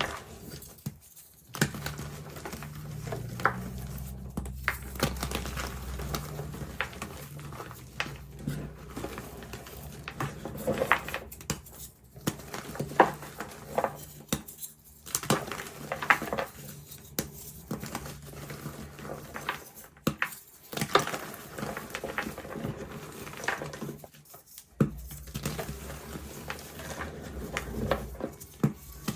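Reformed gym chalk being crushed and crumbled: a run of irregular soft crunches and sharp crackles, broken by a few brief pauses.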